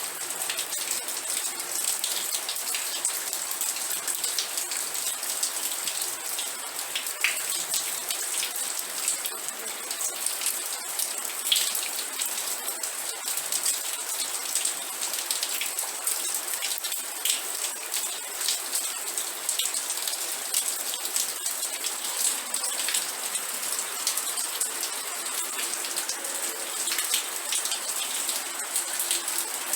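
Steady rain with many individual drops pattering on a hard surface, a constant hiss under close, irregular drop hits.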